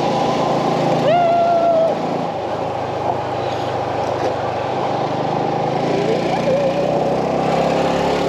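Motorbike engine running steadily under way, with road noise.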